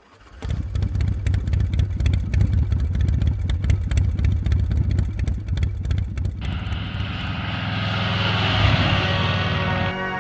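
Motorcycle engine running steadily, with a rushing hiss joining about six seconds in.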